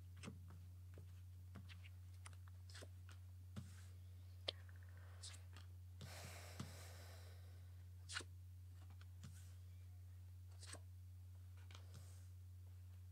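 Tarot cards being handled and laid out: scattered soft taps and clicks, with a brief sliding rustle about six seconds in, over a faint steady low hum.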